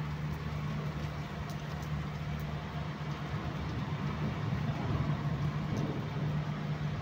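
Steady rain falling, an even hiss, over a constant low machine hum that keeps running unchanged underneath.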